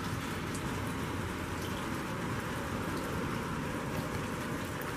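Steady rain falling, a constant hiss with a low rumble underneath.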